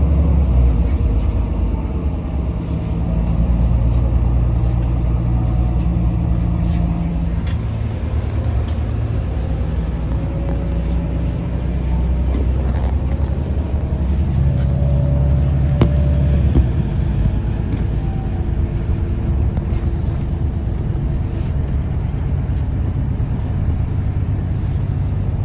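Inside a Yutong ZK6128HG diesel city bus on the move: a low, steady engine drone with road noise, swelling twice as the bus pulls harder, with a couple of faint rattles.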